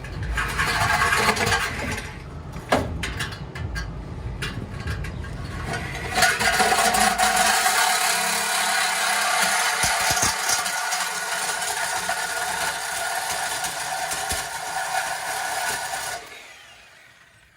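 Power tool cutting through an exhaust pipe. It runs for about two seconds, eases off for a few seconds, then cuts steadily for about ten seconds and stops near the end as the pipe is cut through.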